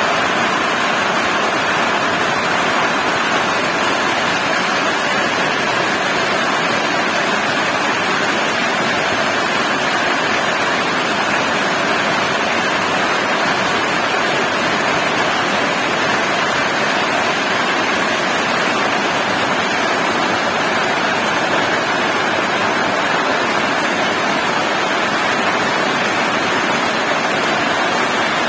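Heavy rain falling, a steady dense hiss that does not change.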